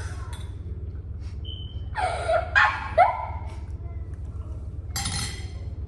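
Short wordless vocal sounds from a person tasting food: two brief exclamations with a bending pitch about two to three seconds in and a breathy burst near the end, over a steady low hum.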